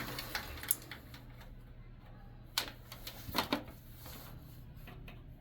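Scattered sharp clicks and taps from test leads and wires being handled at a furnace safety switch while checking it for continuity, over a steady low hum.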